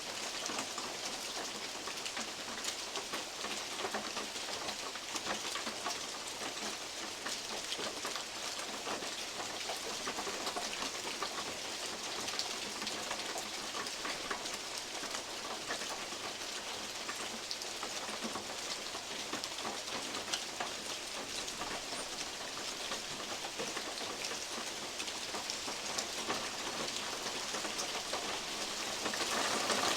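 Steady rain with many individual drops tapping on a metal roof, big drops falling from oak leaves above.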